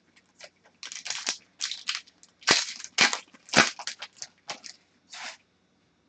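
Trading cards and their plastic or foil packaging being handled, with a quick run of short rustling, sliding and crackling sounds lasting about four seconds.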